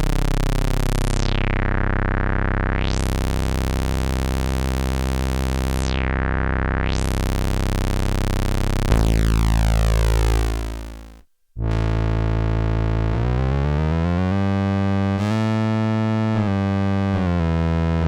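Behringer JT-4000M synthesizer playing factory presets: a buzzy held note whose filter closes and opens twice in slow sweeps, then a falling sweep that fades out. After a brief silence about 11 seconds in, the next preset starts, playing notes that step up and down in pitch.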